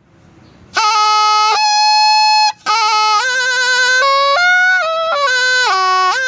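Thai pi, a reed oboe, playing a solo melody in bright, reedy stepped notes. It comes in after a short breath pause, holds one long note, breaks briefly and runs on through quick note changes.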